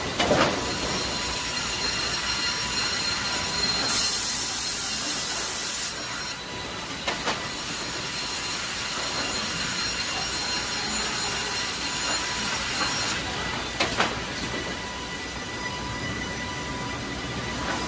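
Automatic timber-processing machinery running, a steady mechanical hum with several high whines. Sharp knocks come near the start and at about seven and fourteen seconds, and a burst of hiss lasts about two seconds from about four seconds in.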